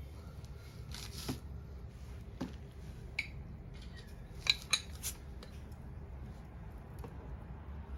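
Scattered light clinks and sharp clicks, like metal or glass tableware being handled, over a low steady rumble; the two loudest clicks come close together just past the middle.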